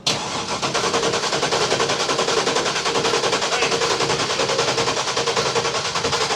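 Turbocharged drag car engine running at a choppy idle after start-up, a loud, rapid and even staccato of exhaust pulses that sets in suddenly.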